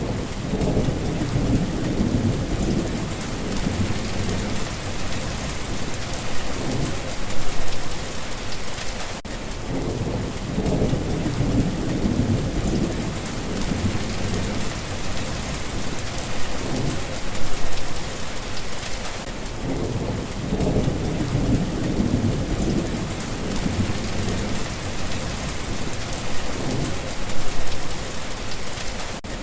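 Steady rain falling with a constant hiss, while low rolls of thunder swell and fade about every ten seconds.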